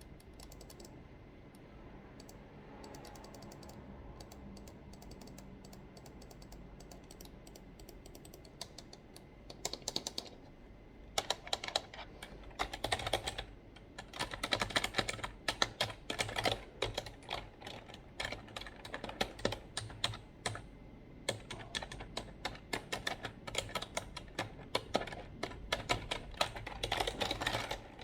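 Typing on a computer keyboard, with fast clattering keystrokes. The first several seconds hold only a few soft clicks, then rapid continuous typing starts about eleven seconds in and runs on, with a brief pause about two-thirds of the way through.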